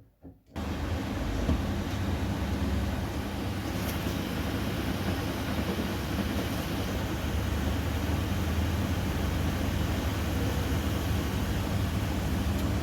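Miele laundry machine running with a steady hum, cutting in abruptly just after the start.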